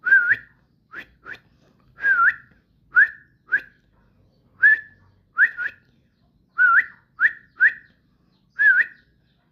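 A person whistling to call a pet yellow-vented bulbul (trucuk): about a dozen short, breathy whistles, each dipping then rising quickly, given singly or in quick pairs with short pauses between.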